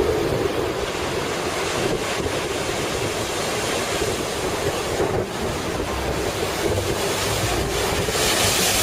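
Heavy typhoon surf breaking continuously, with strong wind buffeting the microphone. The low wind rumble on the microphone grows stronger near the end.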